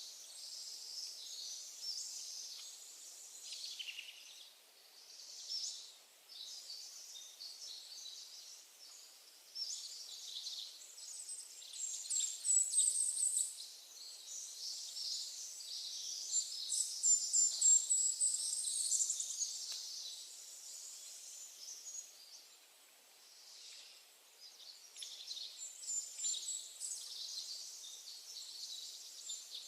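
Songbirds singing, with dense high-pitched chirps and trills overlapping throughout and two runs of quick notes that climb in pitch.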